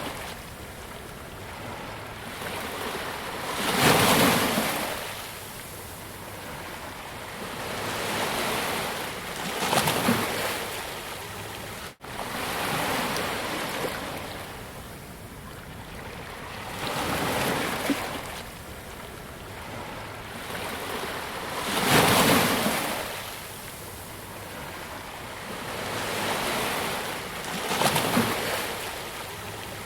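Ocean waves breaking on a beach, each swelling up and washing out over a few seconds, about five in all, with the biggest two about four seconds in and past the twenty-second mark. The sound drops out for an instant about twelve seconds in.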